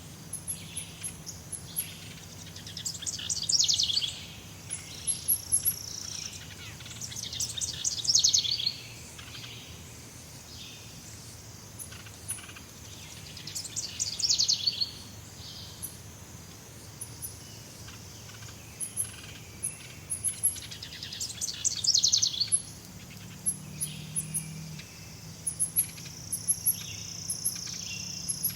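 Jungle ambience of bird calls: a loud rapid descending trill about every five to eight seconds, with short high chirps throughout over a steady insect buzz.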